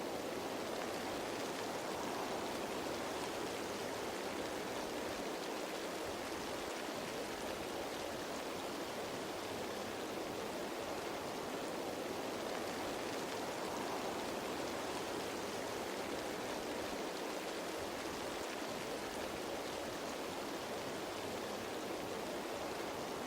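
Steady rain falling on leaves: an even, continuous hiss with no breaks.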